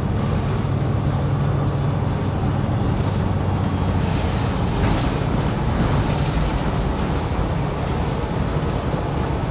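Diesel drivetrain and road noise inside a 2020 New Flyer XD60 articulated bus underway: a steady low hum under an even rumble.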